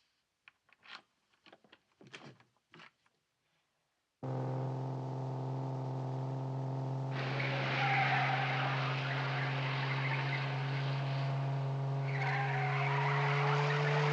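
A few faint clicks and taps, then about four seconds in a car engine cuts in abruptly, running at a steady speed. A hissing road and tyre noise joins about three seconds later, and the engine's pitch rises slightly near the end.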